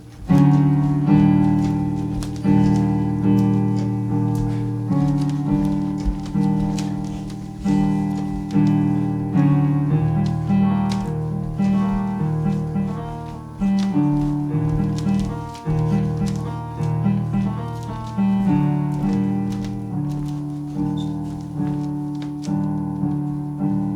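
Piano music: sustained chords struck about once a second, each fading before the next, starting suddenly just after the beginning.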